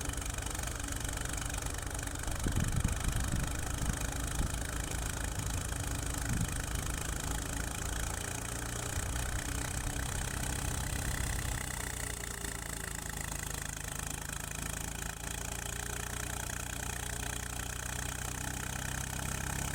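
Swaraj 735 FE tractor's three-cylinder diesel engine running steadily under load, driving a thresher that is threshing wheat, the engine and the thresher's working noise blended together.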